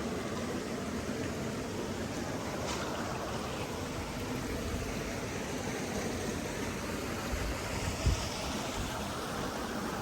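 Steady rushing of flowing water, with a brief low thump about eight seconds in.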